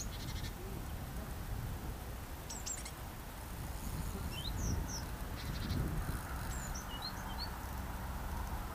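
Small birds chirping: a scatter of short, high calls about halfway through and again a little later, over a low, steady rumble of wind on the microphone.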